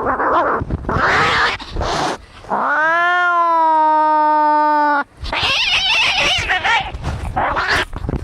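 Angry cats fighting. Harsh, rasping hisses come first. About two and a half seconds in, one long yowl rises and then holds steady for about two seconds before breaking off suddenly. More harsh hissing screeches follow.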